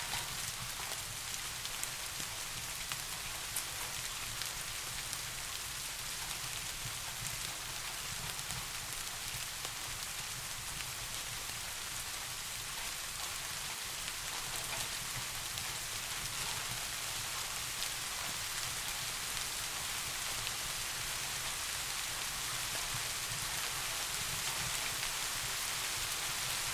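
Steady rain falling, an even hiss filled with fine individual drop patters, over a low steady rumble.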